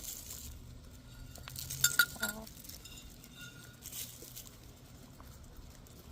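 Backyard hens in the coop: two sharp clinks just before two seconds in, then a short wavering hen call, with faint scattered clicks after.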